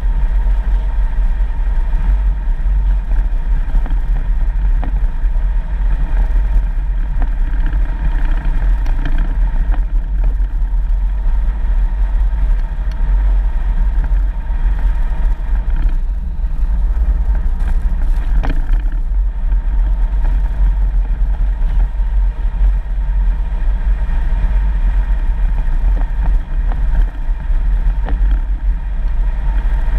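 4x4 vehicle driving along a dirt road: a steady, loud low rumble of engine and tyres on the unpaved surface.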